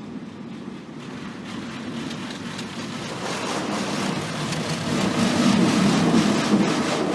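Car wash water jets spraying and drumming against the car's body and windows, heard from inside the car, building steadily louder and heaviest near the end.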